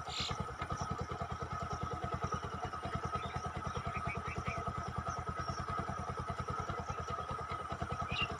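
An engine running steadily at idle, with a rapid, even low beat.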